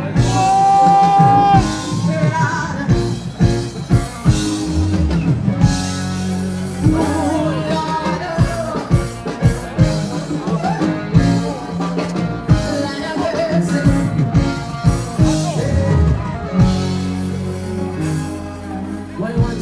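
A live band playing a slowed-down song, with a woman singing over a steady drum beat.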